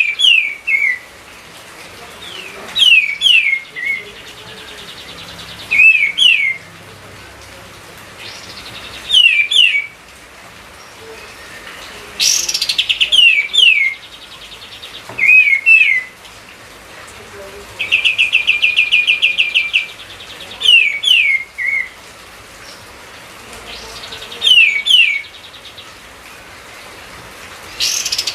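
Kapas tembak bulbul singing: about every three seconds a short phrase of two or three quick, falling whistled notes, and a fast even trill of about two seconds a little after the middle.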